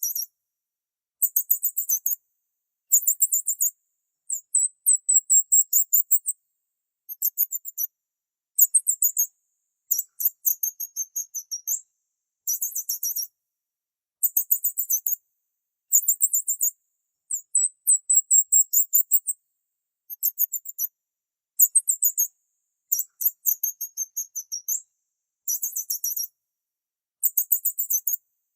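Small bird chirping in very high-pitched phrases of quick pulsed trills and short sweeping notes, repeated about every one to two seconds with brief silences between.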